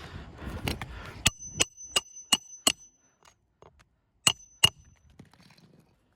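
Hammer blows on a roofing snake tool used to nail a replacement shingle. Five quick strikes with a high metallic ring come about three a second, a short pause follows, then two more strikes. Some rustling comes before the first blow.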